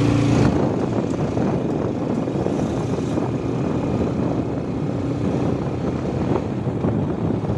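Motorcycle on the move: engine running under a continuous rush of wind and road noise. A steady hum stops about half a second in.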